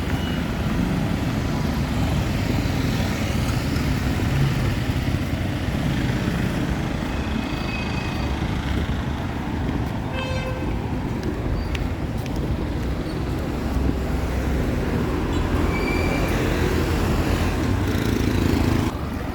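Town street traffic: a steady rumble of passing vehicles and engines, with a few short horn toots partway through.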